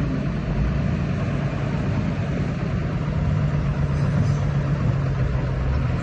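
A heavy engine running steadily at a constant pace, a low drone.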